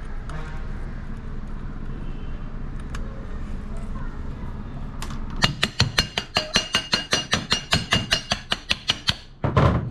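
Rapid metallic clicking with a ringing tone, about seven clicks a second, as a tool works on the ceiling fan's metal motor casing while it is being taken apart. A heavier knock comes near the end, over a steady background hum.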